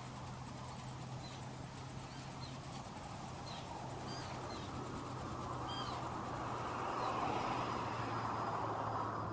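Short, high bird chirps, a handful scattered through the first six seconds, over a steady low rushing noise.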